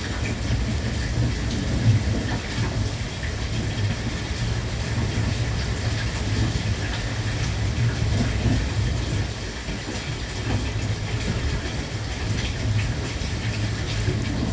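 JR West Thunderbird limited express heard from inside a passenger car while running at speed: a steady low rumble with a hiss of running noise and scattered faint clicks.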